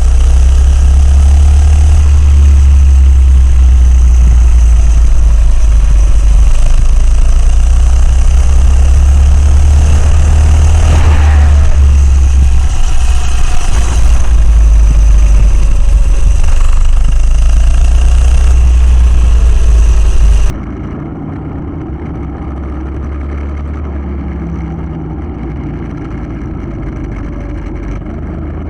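Coleman CC100X minibike's small single-cylinder engine running under a rider, its pitch rising and falling as it is revved and eased off, over a heavy low rumble. About twenty seconds in the sound cuts abruptly to a quieter, duller take of the engine running.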